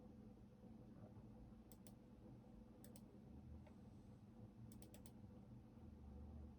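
Faint computer keyboard typing in sparse keystrokes: two taps, a pause, two more, then a quick run of four, over a steady low hum.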